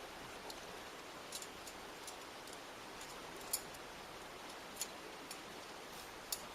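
Wood campfire crackling: sharp, irregular pops and snaps at uneven intervals over a steady rushing noise.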